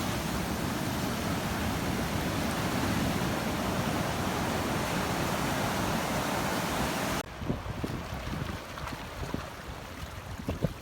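Ocean surf rushing steadily. About two-thirds of the way through it cuts off suddenly to quieter water with irregular low splashes and thuds.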